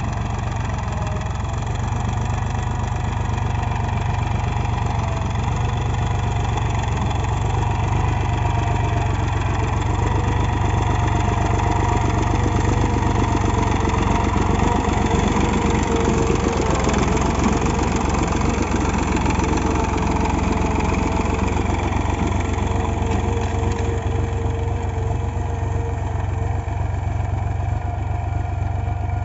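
HMT 3522 tractor's diesel engine running steadily under load while puddling a wet field. It works a little harder and louder through the middle stretch, then eases off near the end.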